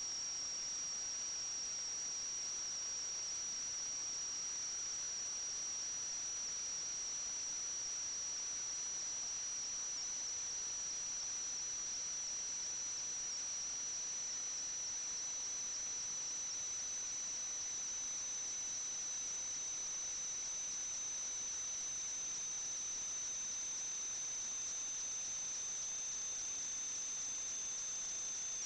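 A steady high-pitched whine over a constant hiss: two thin tones, the upper one creeping slightly higher while the lower one slowly sinks.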